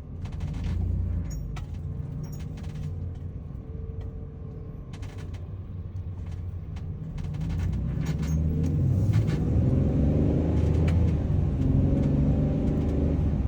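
Van engine and road rumble heard from inside the cab, low and steady at first. About seven seconds in it grows louder and the engine note rises as the van speeds up.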